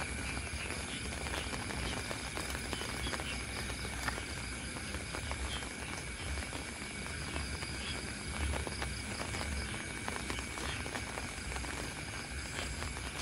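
Steady rain with scattered drops ticking close by, over a steady high insect trill.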